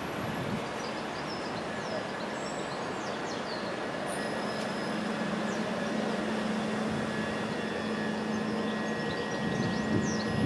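Electric multiple-unit train running at a station platform: a steady noise, with a steady electrical hum coming in about halfway and a few faint high squeaks.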